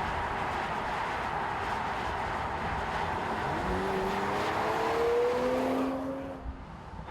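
Mercedes-AMG CLS53's turbocharged inline-six running over steady road noise, its engine note rising as the car accelerates for about three seconds before falling away near the end.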